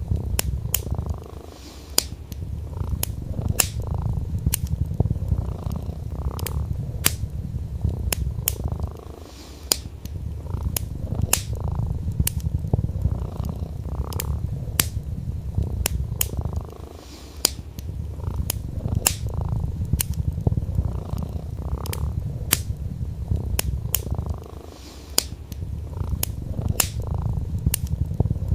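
Domestic cat purring, low and steady, with a short break about every eight seconds, against a wood fire crackling with irregular sharp pops several times a second.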